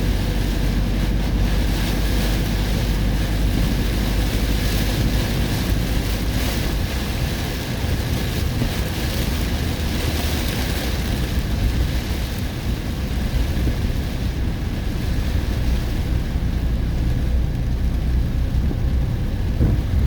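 Vehicle driving through a heavy summer rainstorm: a steady noise of rain and wind over the vehicle's low rumble.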